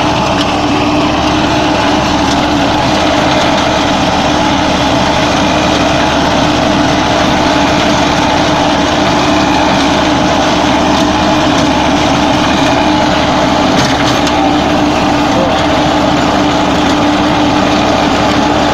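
Farm tractor's diesel engine running at a steady speed: a constant drone with a few steady tones and no change in pitch.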